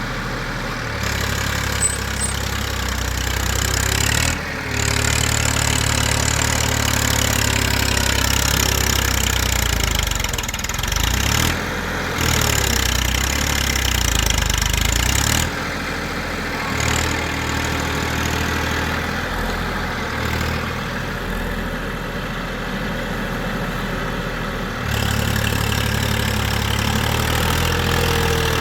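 Tafe 45 DI tractor's three-cylinder diesel engine running under load while pulling a heavy sugarcane load. It gets louder about a second in, eases off around the middle and picks up again near the end.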